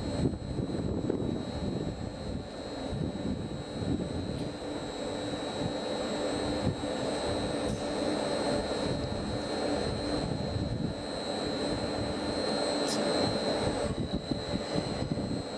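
Railcar running slowly into a station: a steady low rumble with a constant high whine over it, and one brief click near the end.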